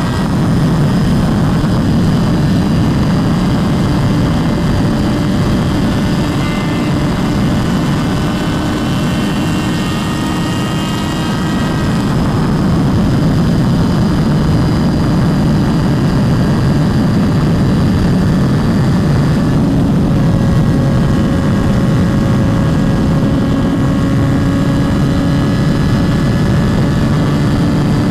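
Motorcycle engine running at a steady, even speed under a heavy rush of wind, its pitch drifting only slightly.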